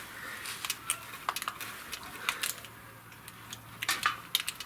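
Scattered light clicks and clinks of small hard objects being handled, several taps spread irregularly with a small cluster about four seconds in.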